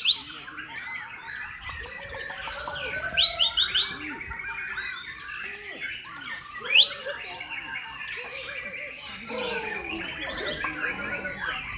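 Many caged songbirds singing at once in a contest, a dense overlapping chorus of chirps, trills and whistles. Sharp rising whistled notes stand out above the rest, loudest about three and seven seconds in.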